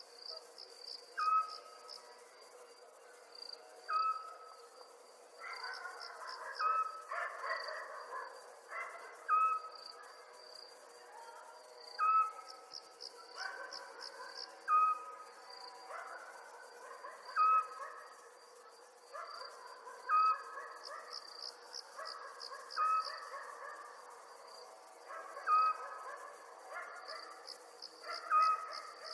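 Night chorus of crickets chirping in steady pulsed trills, with a short pitched call repeating at a regular beat about every three seconds.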